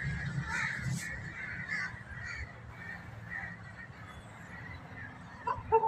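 Birds calling in a series of short, repeated calls over a low steady rumble that slowly fades, with a short louder sound just before the end.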